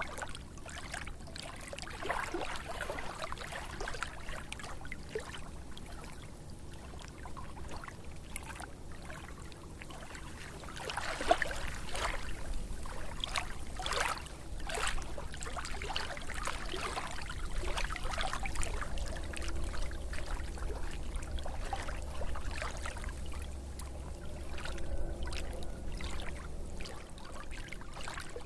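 Water splashing and trickling in uneven spurts, over a low steady rumble.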